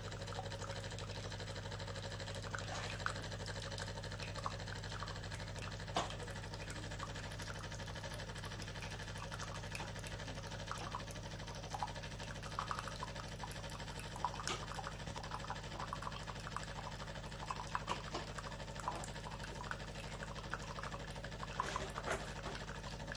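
Espresso machine's pump humming steadily, with small drips and ticks over it.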